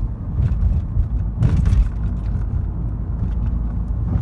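Car driving, heard from inside the cabin: a steady low rumble of engine and road noise, with a brief louder rush about a second and a half in.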